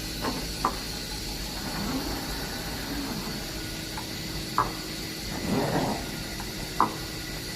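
Bottero glass cutting machine's bridge travelling under power: a steady motor hum, whines that rise and fall as it speeds up and slows, and a few short sharp squeaks. The noise comes from a worn bearing that needs replacing.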